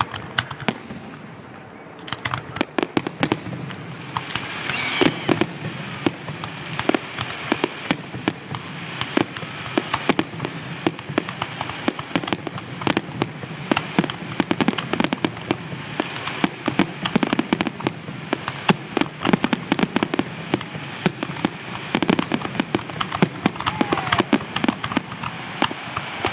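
Fireworks display: a dense, rapid barrage of bangs and crackles that thickens about two seconds in and keeps up without a break.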